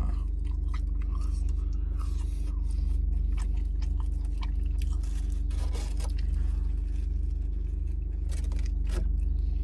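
A person chewing fast food, with scattered clicks, crunches and rustles, over a steady low hum. Near the end he bites into a cheeseburger.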